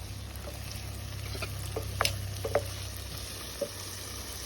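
Food sizzling in a frying pan, with a few light clicks of a utensil against the pan partway through.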